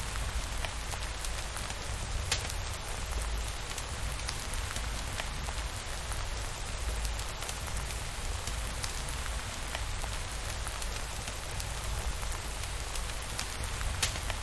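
Steady rain falling, an even hiss with scattered sharp ticks and a low rumble underneath.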